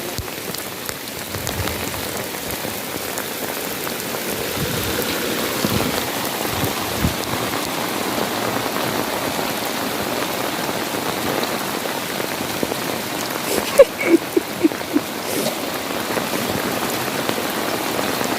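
Heavy rain falling steadily, a dense even hiss. About fourteen seconds in, a quick run of about five short knocks stands out above the rain.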